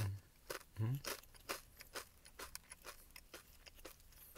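Mouth chewing a crunchy multi-grain baked cracker: a run of crisp crunches, louder in the first couple of seconds and softer after.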